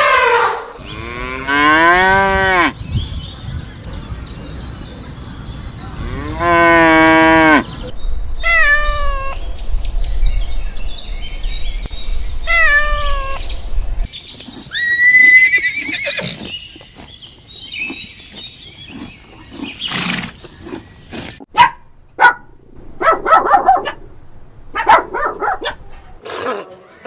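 Cattle mooing: a series of drawn-out calls, the later ones shorter and higher-pitched with a falling pitch. These give way to scattered sharp clicks and short rough sounds.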